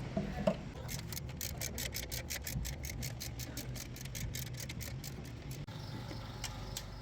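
Ratchet wrench clicking rapidly and evenly, about six clicks a second, as a fitting is tightened or loosened. It starts about a second in and stops suddenly after about four and a half seconds, over a low steady hum.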